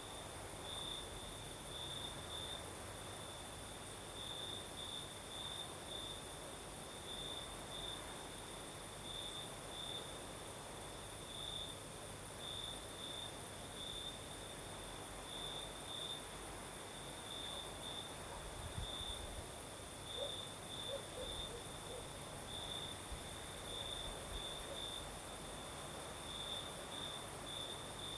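Crickets singing at night: a close cricket repeats short chirps in uneven groups over a steady high-pitched hiss, with a low breeze rumble underneath.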